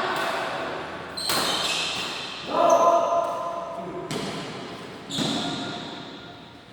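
Badminton rackets striking a shuttlecock in a rally, sharp hits about one to three seconds apart, each echoing in a large hall.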